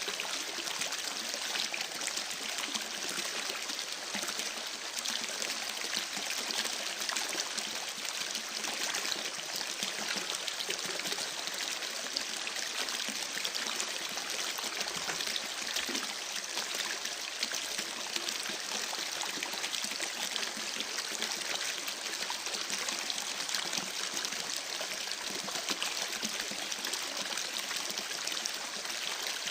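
Campfire crackling: a steady hiss thick with fine, rapid crackles and pops, with no change in pace.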